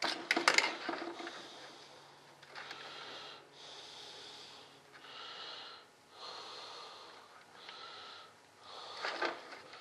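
A person breathing audibly through the nose close to the microphone, a steady run of in and out breaths. A few sharp clicks in the first second, as of a plastic connector being handled.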